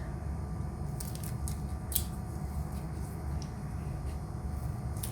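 A few faint, sharp crackling clicks as green cardamom pods are split open by hand, over a steady low hum.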